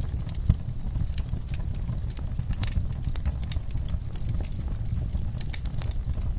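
Wood fire in a fireplace crackling and popping, with irregular sharp snaps over a steady low rumble of the flames; one louder pop about half a second in.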